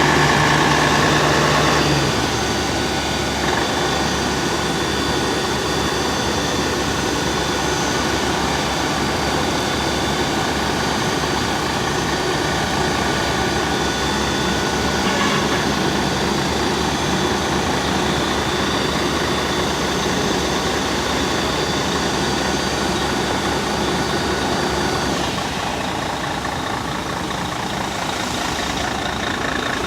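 Fire truck engine running steadily, dropping in level and pitch about two seconds in, as if easing back toward idle.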